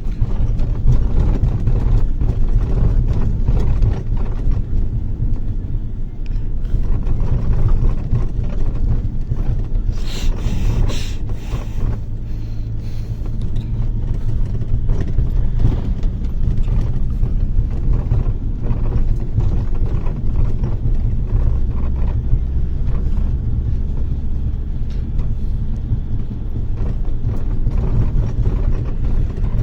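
Inside a moving bus: the steady low rumble of the engine and road noise. A short burst of hiss comes about ten seconds in.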